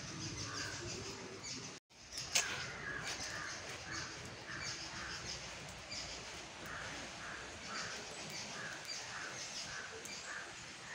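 A bird calling over and over in short repeated notes, about two or three a second, against steady outdoor background noise, with a single sharp click about two seconds in.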